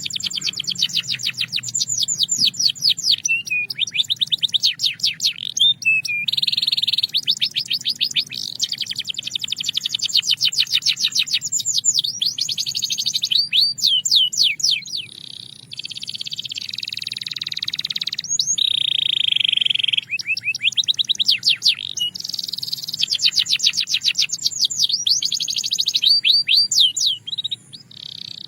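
Belgian canary singing in fast trills and rolls, runs of rapidly repeated notes broken by short pauses, with a few held whistling notes in between.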